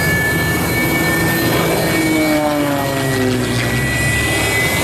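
Su-30MKM fighter's jet engine whining during start-up, a loud high whine slowly rising in pitch as it spools up. Midway through, a set of lower tones glides downward.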